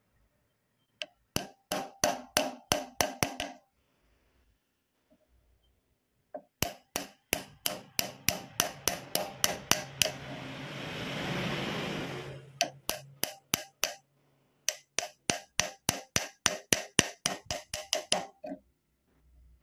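Runs of rapid, sharp knocks, about five a second, in four bursts of a few seconds each, with a short stretch of hiss and low hum between the second and third bursts.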